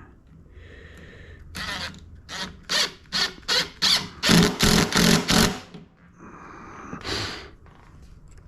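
Cordless impact driver driving a screw into wood in a run of about ten short trigger bursts, coming faster toward the end, then one more short burst a couple of seconds later.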